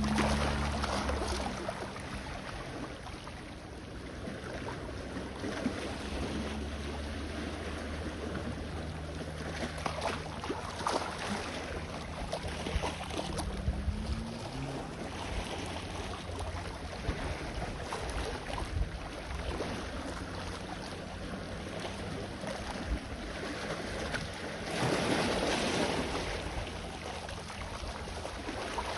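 Sea waves washing on the shore, swelling louder near the start, about ten seconds in and again near the end. Under them a distant engine hums low and steady, its pitch rising briefly about halfway through.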